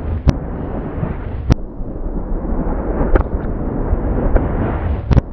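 Fireworks played slowed down and reversed: a continuous low rumble with about five sharp bangs, the last a quick double. The rumble swells up into some of the bangs, as the reversed echoes lead into each crack.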